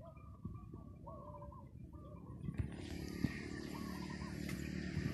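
A bird calling over and over in short arched notes. About halfway through, a louder dry rustling with small crackles comes in, from a bundle of dry bamboo strips being handled, along with a steady low hum.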